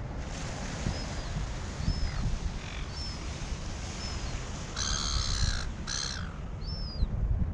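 A bird gives two loud calls about five and six seconds in, while a short high chirp repeats about once a second, over a low steady rumble.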